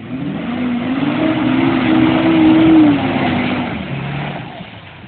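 Truck engine revving hard, its pitch climbing and holding, then dropping off about three and a half seconds in, under a loud rushing noise.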